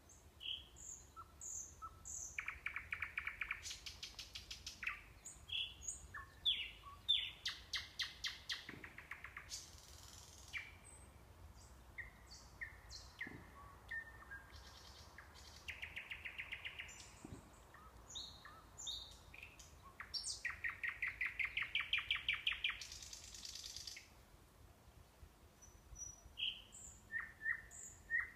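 Nightingale singing, a string of varied phrases with short pauses between them: fast rattling trills of repeated notes alternate with short whistled notes and a couple of harsh rasping notes.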